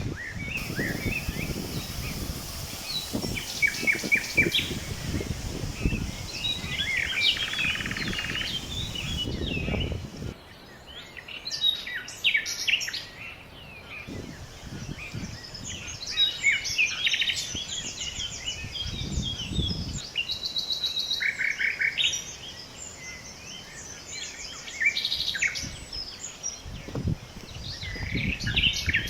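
Several songbirds chirping and trilling, with many overlapping short calls and rapid trills. Low rumbles come and go underneath, heaviest through the first third and again near the end.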